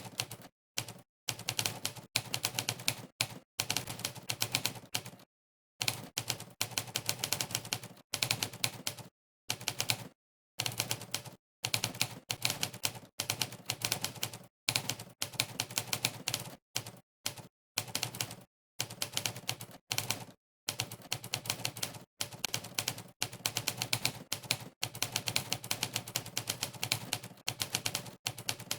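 Simulated typewriter key strikes from Monkeytype's typewriter sound setting, one click per keypress during fast typing. They come in quick runs broken by short pauses of dead silence.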